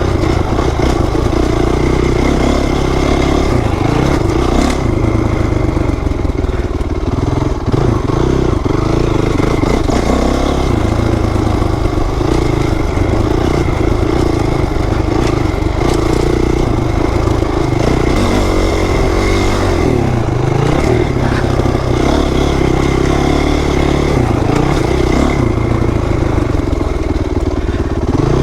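2008 Honda CRF450R dirt bike's single-cylinder four-stroke engine running steadily, with no big swells in revs.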